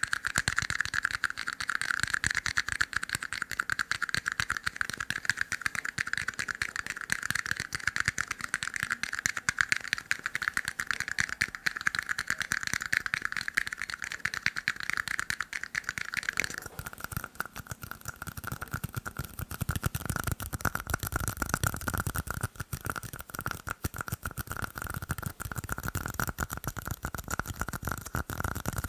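Fast tapping on plastic cups, a dense, continuous stream of quick clicks. About two-thirds of the way through, the tone changes and the taps turn duller, with more low thud in them.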